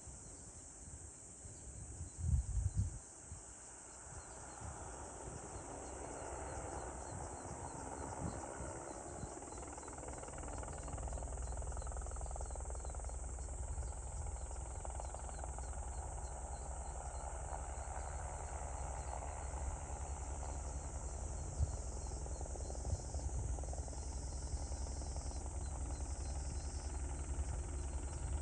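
Crickets and other insects chirp steadily while a crop-spraying helicopter's rotor and engine drone grows louder over the first ten seconds or so, then holds steady with a rhythmic low pulsing. A few low thumps come about two seconds in.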